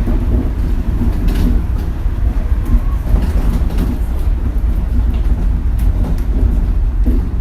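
Interior running sound of a Shonan Monorail suspended car at speed on its rubber tyres: a steady, loud, deep rumble with a few faint clicks and knocks.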